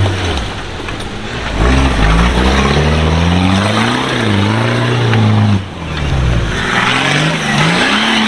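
Off-road 4x4's engine revving up and down under load, its note rising and falling repeatedly, with a strong surge of revs about a second and a half in and a brief drop about five and a half seconds in.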